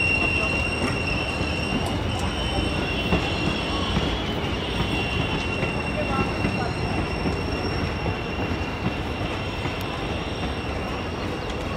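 Indian Railways passenger coaches rolling past on the rails, with a steady high-pitched squeal from the wheels over the rumble of the running gear. The squeal and rumble ease a little near the end as the last coach moves away.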